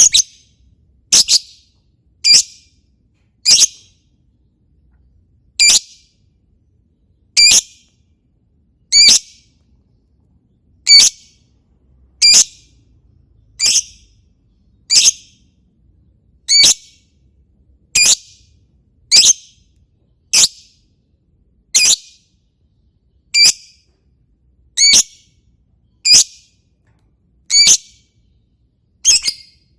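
A lovebird giving its short, sharp, high-pitched 'ngetik' call, the clipped chirp likened to typing, over and over at an even pace of roughly one every second and a half.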